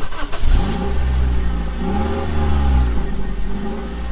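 Tata Intra pickup's engine running, its pitch rising and falling twice as it is revved.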